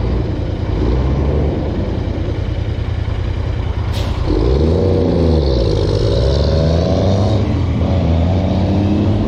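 Royal Enfield Interceptor 650's parallel-twin engine running under way, with a steady low rumble; from about four seconds in its pitch dips and climbs again as the revs change.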